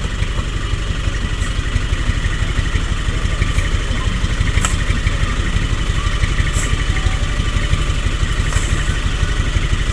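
Hino Dutro light truck's diesel engine running steadily with an even low pulse.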